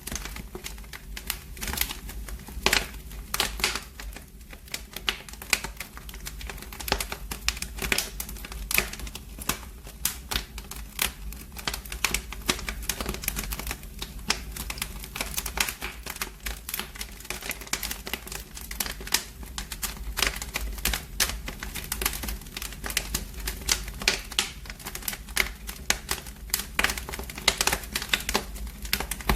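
Wood fire in a fireplace crackling, with a dense, irregular run of sharp pops and snaps over a steady low rumble.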